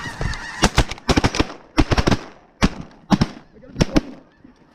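Volley of shotgun shots from several hunters firing together at low-flying snow geese, about a dozen shots in quick, uneven succession, thinning out toward the end.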